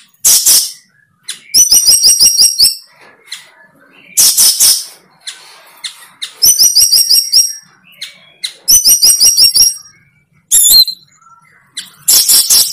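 A bird calling loudly and repeatedly. Short harsh calls alternate with quick runs of high chirps, with one swooping whistle near the end.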